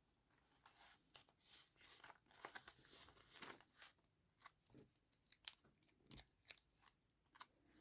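Faint paper handling: soft rustling and crinkling of paper with scattered small ticks.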